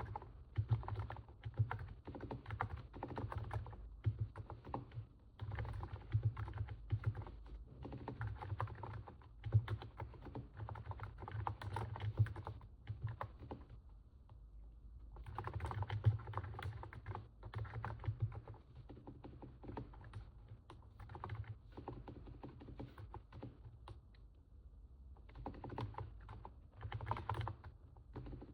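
Typing on a NiZ 68 Pro capacitive keyboard: fast runs of keystrokes with two short pauses, about halfway through and again near the end.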